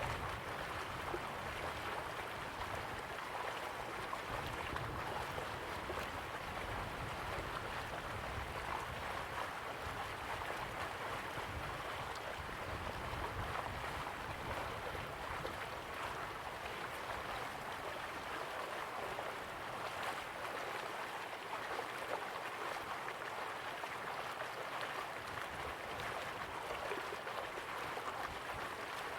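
River water flowing slowly, a steady even rush of moving water with a faint low rumble underneath.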